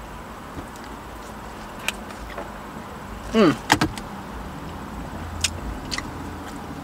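A person eating: scattered short mouth clicks and smacks from chewing, with one short vocal sound falling quickly in pitch about three and a half seconds in, the loudest moment, over a steady low hum inside a car.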